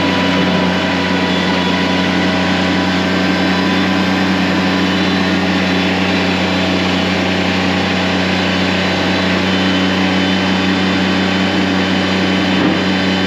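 A motor vehicle engine running loud and close at a steady, unchanging speed.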